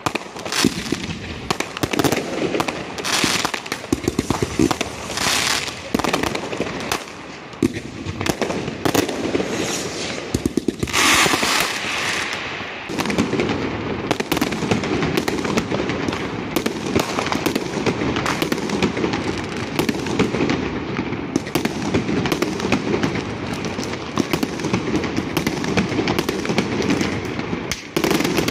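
The Hawk Fireworks consumer New Year's fireworks going off in quick succession: bangs and crackling, with a few hissing bursts in the first half. From about halfway through it becomes a dense, unbroken crackling that carries on to the end.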